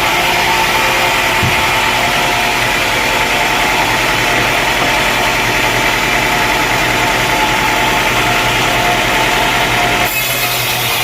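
Sawmill engine running steadily, with a change in its sound near the end.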